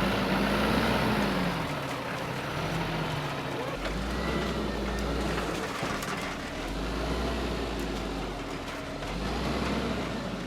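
Truck engine revving up and easing off again and again, its pitch rising and falling with heavy surges of low rumble, as the stuck truck strains to pull itself free.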